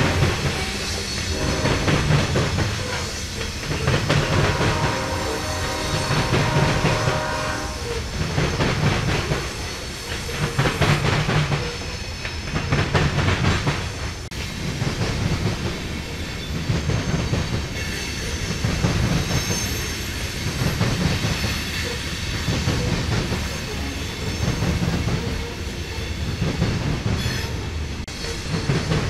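Freight train rolling past, its railcars' wheels clacking over the rail joints in a regular rhythm about every two seconds over a continuous rumble.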